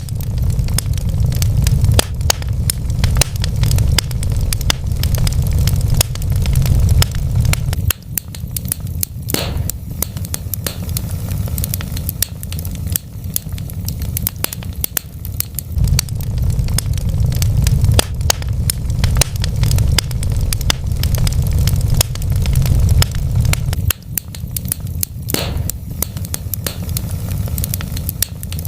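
Burning wood fire crackling: many small snaps over a steady low rumble, with two louder pops, one about nine seconds in and one near the end.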